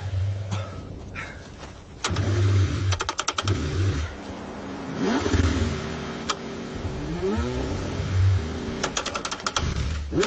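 Car engine cranking over in the cold and revving in uneven bursts, the engine struggling to start. Two quick runs of sharp clicks come about 3 s and 9 s in.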